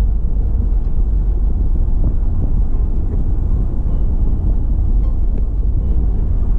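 Steady low rumble of a car driving along the road, road and engine noise.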